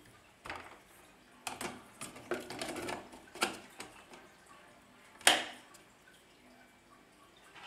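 Irregular knocks and clatters of hard objects being handled, the sharpest about five seconds in.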